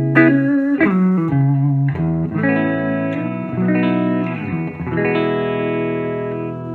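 Electric guitar with the Fat Bottom humbucker pickups, bridge and neck pickups on together, played clean through a Fender Vibrolux Reverb amp: several chords and notes struck in turn, the last about five seconds in and left ringing out.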